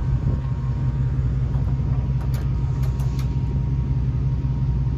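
A motor vehicle engine idling with a steady low rumble. A few light clicks come a little past the middle.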